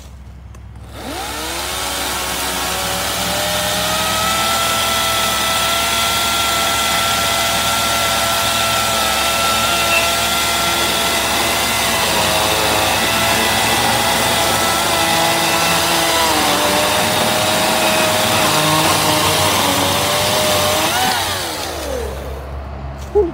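EGO 56-volt cordless electric chainsaw spinning up about a second in, then running with a steady motor whine for about twenty seconds. The pitch dips from about 16 seconds as it bites into a log. It winds down near the end, followed by a short click.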